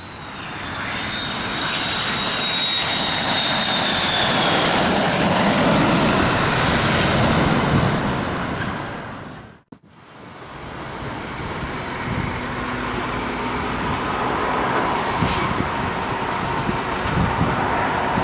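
Boeing 737-800's CFM56-7B jet engines passing on approach: broad jet noise builds over several seconds, with a high whine slowly falling in pitch. The sound cuts out abruptly about ten seconds in and returns as a steadier, lower rumble with road traffic.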